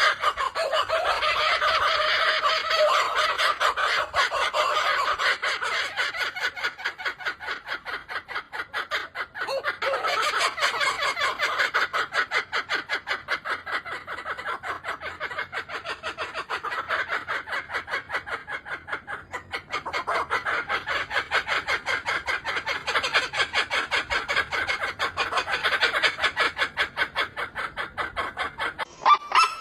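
A bird's rapid, pulsing chatter, many clucking notes a second, swelling and fading in three similar stretches. A different, honking call starts right at the end.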